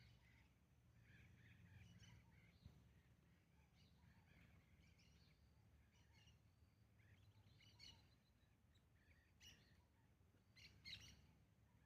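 Birds chirping faintly in short scattered calls, with a few louder chirps in the second half, over a steady low background hum.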